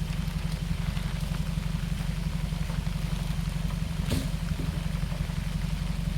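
A vehicle engine idling steadily, with a single short knock about four seconds in.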